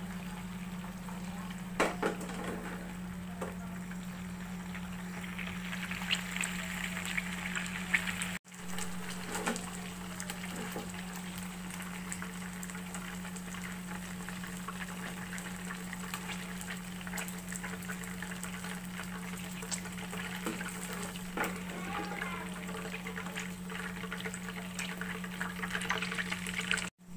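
Chicken frying in shallow oil in a non-stick pan: a steady sizzle with fine crackling and a few sharper clicks. A steady low hum runs underneath, and the sound drops out for an instant about eight seconds in.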